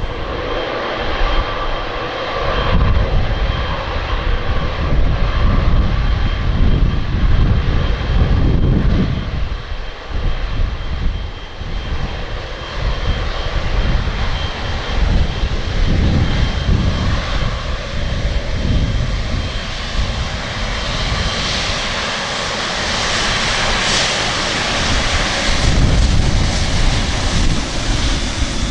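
Jet airliner engines running steadily, with a faint high whine; the jet hiss swells about two-thirds of the way in. Gusty wind rumbles on the microphone throughout.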